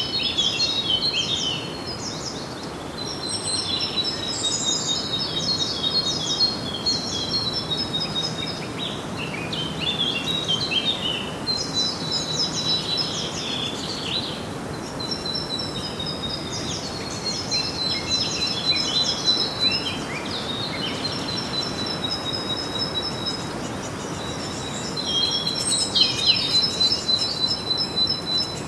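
Songbirds singing: bouts of rapid, high chirps and trills a few seconds long, repeating with short gaps, over a steady background hiss.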